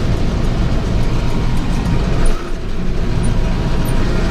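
Tractor engine running steadily with the PTO-driven round baler turning behind it.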